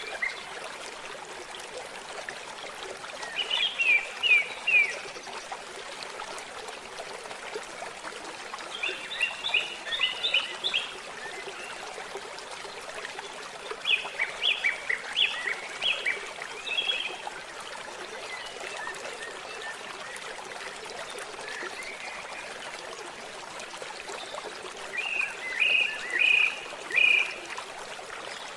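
Small forest stream trickling and gurgling steadily, with a songbird singing four short bursts of quick repeated chirps.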